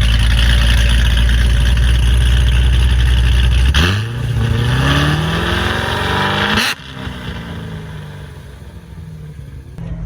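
A vehicle engine runs loud at a steady pitch. About four seconds in it revs up, its pitch climbing for nearly three seconds, then drops away abruptly to a quieter running sound.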